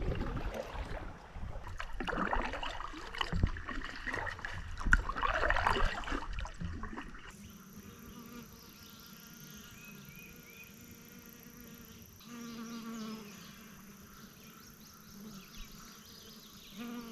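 Rough, gusty noise of wind on the microphone for the first seven seconds or so. After a sudden drop it turns quieter, with a fly buzzing, loudest about twelve seconds in.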